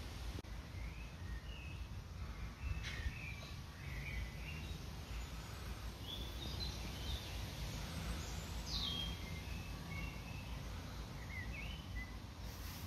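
Small birds chirping in short, scattered high calls over a steady low rumble of outdoor background noise.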